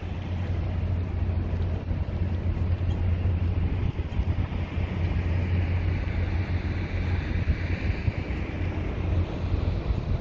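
Road traffic rumble with wind buffeting the microphone; a hiss swells and fades in the second half.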